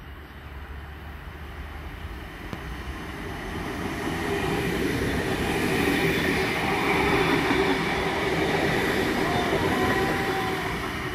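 Sydney Trains S set double-deck electric train passing close by on the rails: the rumble of wheels and running gear grows louder as it approaches, is loudest in the middle and eases near the end as it goes by.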